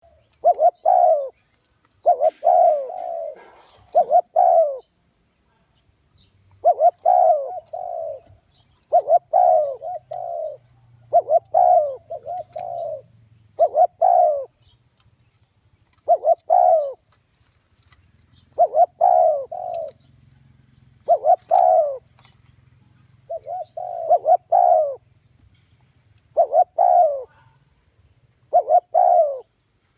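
Spotted dove cooing: a decoy bird's phrase of a few quick notes, repeated about every two seconds, the call used to lure wild doves into a trap.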